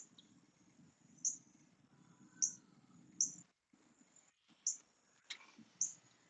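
A bird chirping outdoors: short, high chirps repeating irregularly about once a second.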